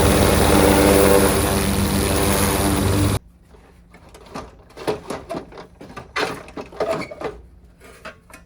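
Kubota KH-007 mini excavator's diesel engine running steadily, stopping abruptly about three seconds in; then a series of irregular knocks and clicks.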